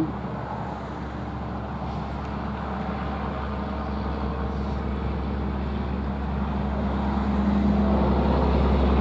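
A motor vehicle's engine running steadily, with a low rumble that grows gradually louder.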